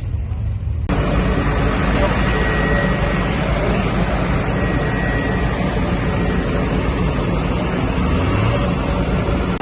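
Crowd babble over a steady engine rumble from machinery; about a second in the sound cuts abruptly from a low rumble to a fuller, louder mix of voices and engines.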